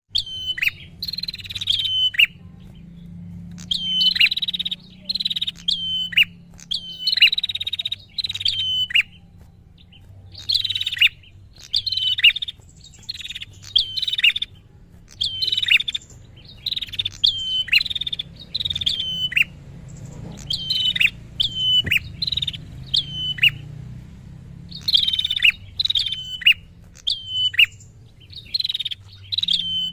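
Prinia (prenjak) calling insistently: a long series of short, sharp, high chirps, each ending in a quick downward flick, repeated in bursts about once a second with brief pauses.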